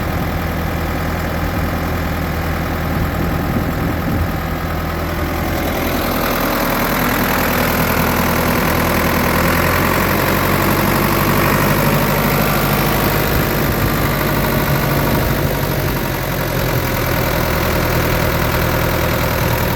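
Ford 6600 tractor's diesel engine running steadily, picking up speed about six seconds in and easing back slightly near the end.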